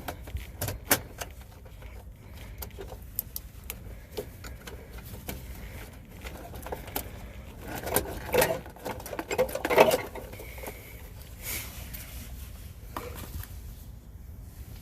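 Scattered small clicks and ticks of hand tools and wire terminals as line-voltage wires are worked loose from an air conditioner's contactor, with a louder spell of rustling and scraping about eight to ten seconds in.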